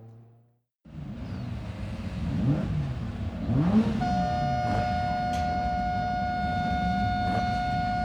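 A racing car's engine running and revving, its pitch rising and falling, then joined about halfway through by a steady high-pitched whine held to the end.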